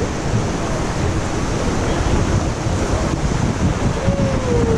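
Wind buffeting the microphone over the rush of river water during a boat ride, a loud, steady noise with low gusts.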